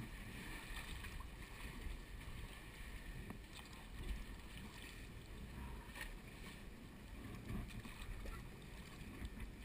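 Water lapping and lightly splashing around a kayak on open water, with a few faint splashes scattered through and a low wind rumble on the microphone.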